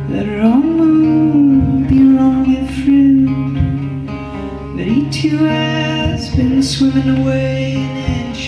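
Live band playing, with guitar to the fore and sliding notes rising about half a second in and again around five seconds.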